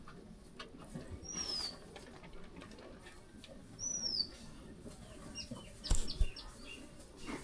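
Birds calling: two single chirps that slide down in pitch a few seconds apart, then a quick run of short chirps. Two sharp knocks close together near the end are the loudest sounds, over a low background hum of the yard.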